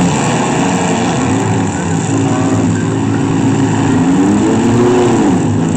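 Engines of several demolition-derby minivans, pickup trucks and a Jeep running together and revving up and down, one rising and falling clearly about four to five seconds in.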